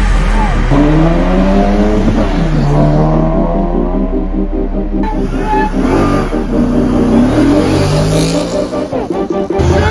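Engines revving, their pitch rising and falling repeatedly, with a car driving close past near the end.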